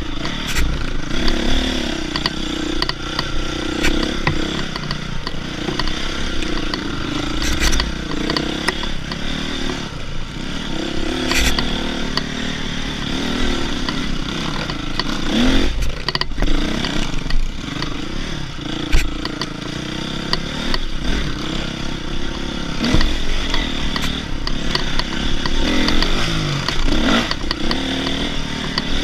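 Dirt bike engine revving up and down again and again while riding, with clattering and scraping throughout.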